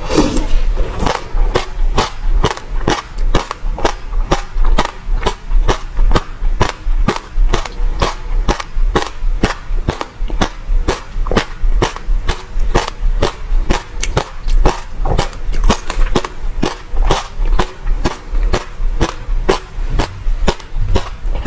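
Close-miked chewing of passion fruit, the seeds crunching in a quick series of sharp clicks, about three or four a second.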